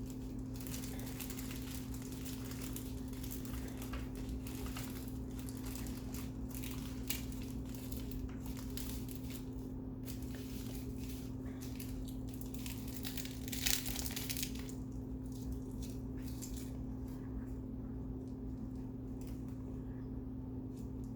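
Close, irregular crinkling and crunching as seaweed-wrapped kimbap is handled and eaten, with one louder crackle near the middle, over a steady low electrical hum.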